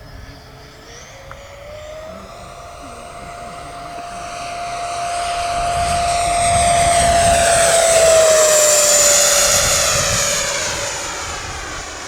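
FMS 80 mm electric ducted fan of a large RC Boeing 727 model whining as the jet flies past. The whine rises in pitch about two seconds in, grows louder to a peak around eight seconds, then drops in pitch and fades as the plane passes.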